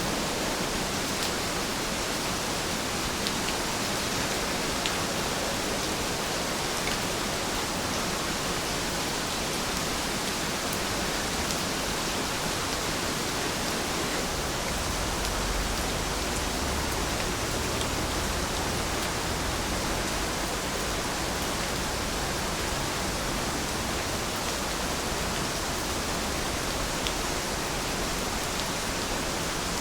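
Steady rain falling, an even hiss with an occasional sharper tick of a single drop.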